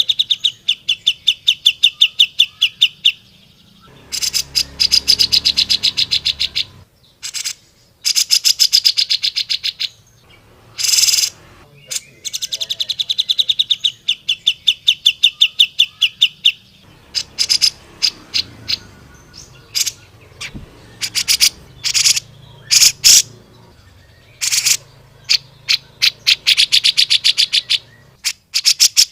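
Grey-cheeked bulbul (cucak jenggot) singing loudly in long, rapid trills of repeated notes, each run lasting a few seconds, with short breaks between them.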